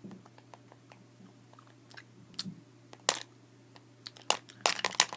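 Someone chewing and crunching noisily: scattered crisp crunches, thickening into a rapid run of crunching about four seconds in.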